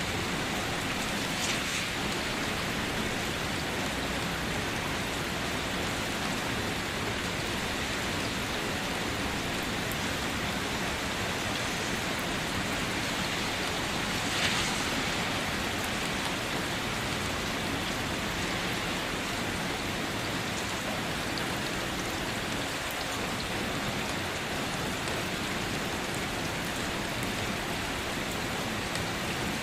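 Steady rainfall, an even hiss of drops falling with no thunder. One brief louder splash comes about halfway through.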